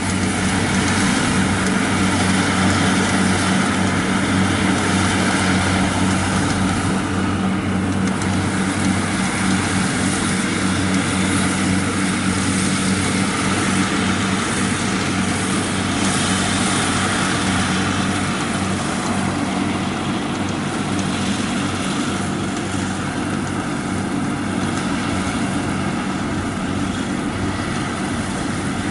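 Kubota 70 rice combine harvester running steadily while it cuts rice, its engine making a constant low hum under a mechanical whir, easing off slightly after about twenty seconds.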